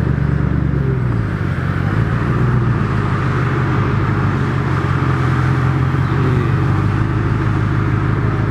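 Koenigsegg Regera's twin-turbo V8 running at low speed as the car creeps along, a steady low engine note with small rises and falls in pitch in the first second or so.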